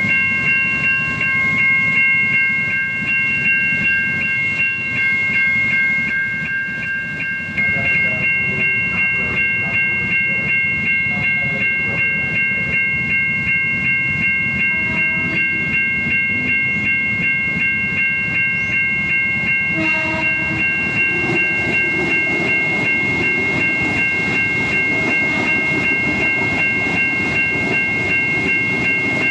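Siemens electronic level-crossing warning bell, American-style, sounding a rapid, even string of high dings without a break, over the low rumble of a train passing the crossing.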